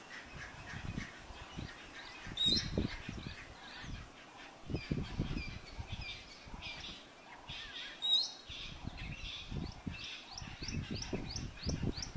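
Birds chirping and calling outdoors, with two sharper calls and a quick run of repeated chirps near the end, over uneven low rumbling.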